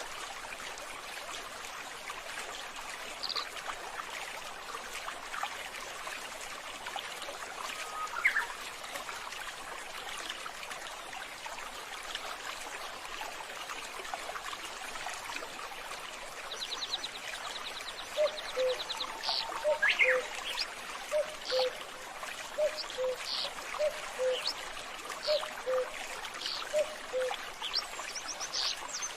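Water trickling steadily, with birds calling over it. From about two-thirds of the way through, a low two-note call repeats over and over, alongside short high chirps and a brief trill.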